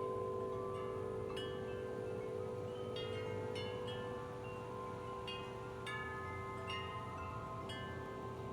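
Several large tuned metal wind chimes ringing in the wind. A few deep tones hum on steadily beneath frequent, irregular higher-pitched strikes.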